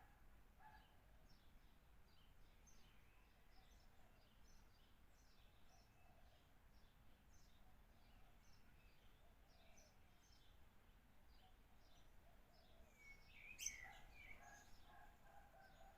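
Faint bird chirping: many short, high chirps repeated throughout, with one louder, sharper call near the end.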